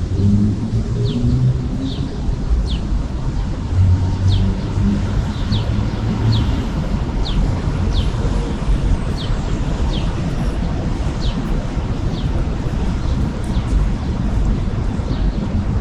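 Outdoor city ambience: a steady low rumble of traffic, with a small bird repeatedly giving short, falling chirps at uneven intervals, about one a second.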